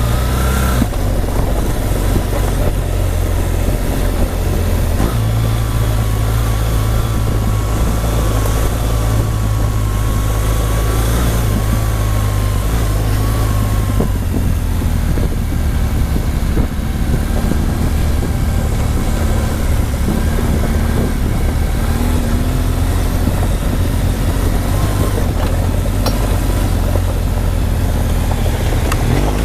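Motorcycle engine running steadily under way, its note stepping to a new pitch about five seconds in and again about fourteen seconds in, under constant wind rush.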